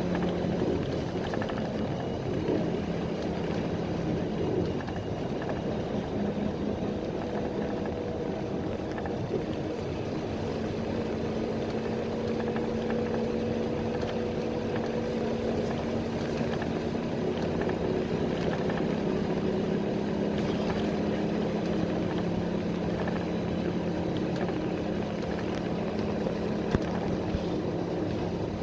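A PAZ-320405-04 Vector Next bus running along the road, heard from inside the cabin: a steady engine drone with road and tyre noise. The engine tones shift slowly in pitch as the speed changes, and there is one short click near the end.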